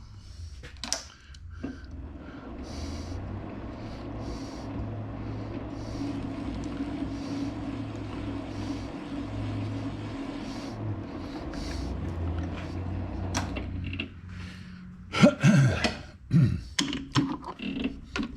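Metal lathe running with a steady hum while machining a small steel bushing; it stops about 14 seconds in, followed by several sharp metal clanks and knocks.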